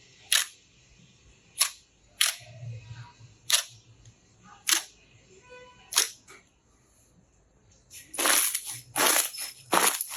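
Slime being handled, making sharp clicking pops about once every second, then a quicker run of louder crackles near the end.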